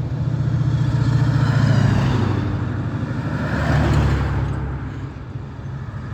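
Antique and classic cars driving past at low parade speed, their engines running steadily, the sound swelling as a car goes by about two seconds in and again about four seconds in.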